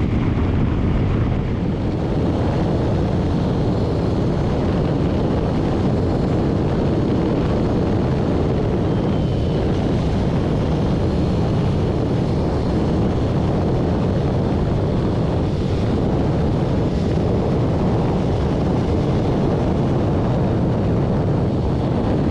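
Steady wind rush over the microphone of a Honda Rebel 300 motorcycle riding at road speed, with its engine running underneath.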